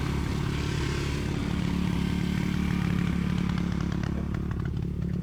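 Dirt bike engine idling steadily with a fast, even beat.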